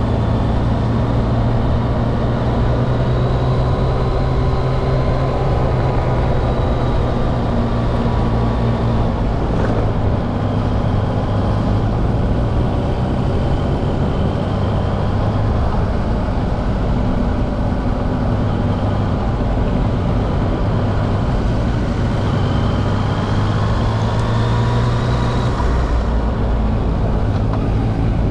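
Yamaha XSR900's three-cylinder engine running steadily under way, with a loud low drone and a pitch that shifts up and down a few times.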